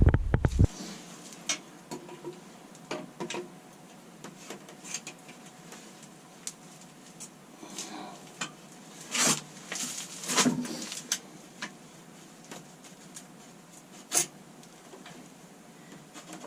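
Scattered light clicks and clinks of a metal exhaust bracket and bolts being handled and fitted onto a motorcycle exhaust, with three louder knocks in the second half.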